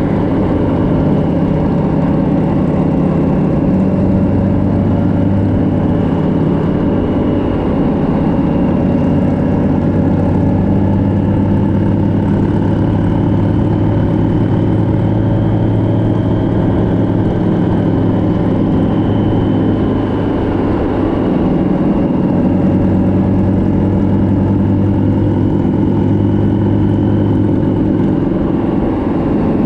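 Motorcycle engine running steadily at cruising speed, with wind and road noise. Its note dips briefly around two-thirds of the way through, then picks back up.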